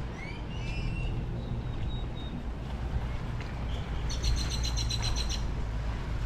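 Birds chirping over a steady low rumble of wind and water: a few quick upward chirps at the start, then a rapid run of high, evenly spaced notes about four seconds in.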